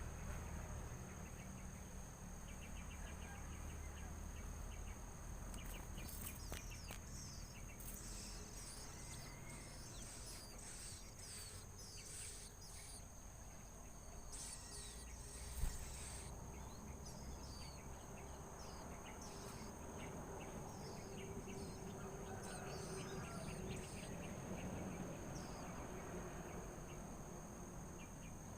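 Steady high-pitched drone of crickets or cicadas, with many short, high bird chirps coming in quick series through the middle, and a single low thump about halfway.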